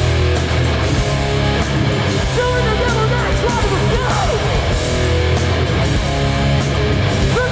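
Hardcore band playing live at full volume: distorted electric guitars, bass and drums, with sliding pitched notes riding over the steady low end.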